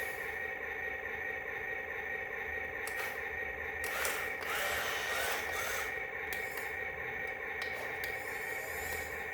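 Small electric motor whirring steadily at an even pitch, with scattered clicks and a brief louder rush of noise about four seconds in.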